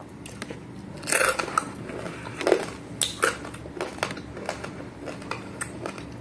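Crispy fried dried anchovies (dilis) being chewed close to the microphone: irregular crunches, loudest about a second in and again around two and a half to three seconds.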